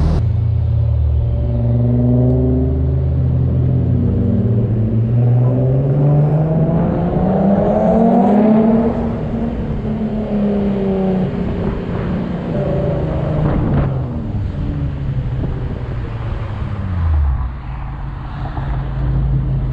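Car engine and exhaust under way, pulling up in pitch to a peak about 8 seconds in, easing off, pulling again a little later, and dropping away near the end.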